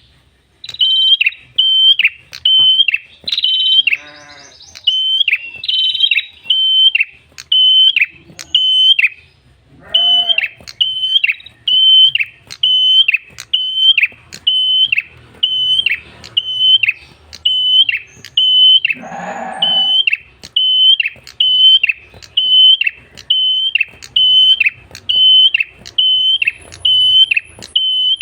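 Tailorbird (prenjak kepala merah) calling over and over, a loud clear note repeated steadily at just over one a second. A brief scratchy chatter breaks in once or twice.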